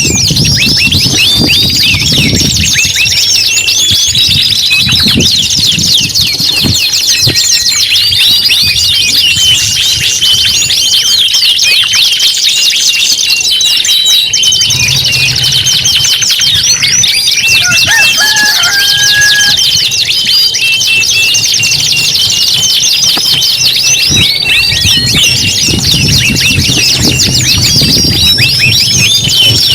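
Several domestic canaries singing at once: a dense, continuous chorus of rapid trills and rolls with short steady whistled notes mixed in.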